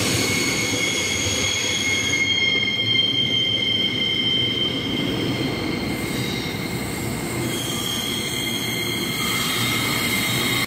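Freight train wagons rolling past with steady high-pitched wheel squeal over the low rumble of wheels on rail. The squealing tones shift and weaken briefly about midway, then return.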